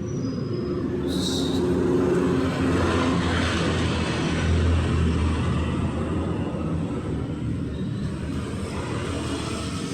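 Street traffic: a motor vehicle's engine running close by, swelling to its loudest about four seconds in and then easing off as it passes. A short high hiss about a second in.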